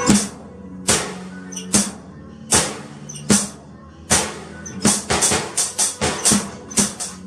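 Drum kit played along to a backing music track. Single strong hits come about once a second, each ringing on briefly. In the second half they speed up into a quicker run of hits. The backing music stays faint beneath them.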